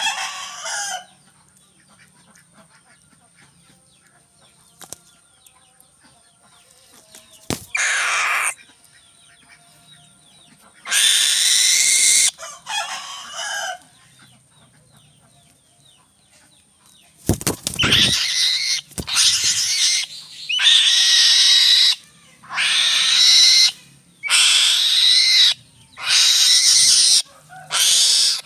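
A bird's harsh, screeching calls. A few come singly at first, then a steady series of about eight follows in the second half, each about a second long.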